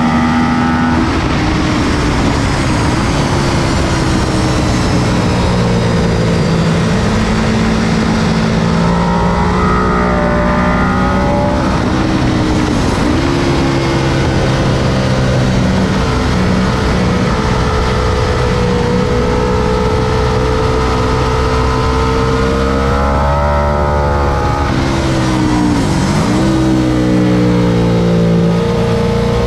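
2004 Ducati 999S's 998 cc Testastretta L-twin engine running at track pace, its pitch climbing and falling as it pulls through the gears. Its pitch drops sharply once about halfway through and twice more close together near the end.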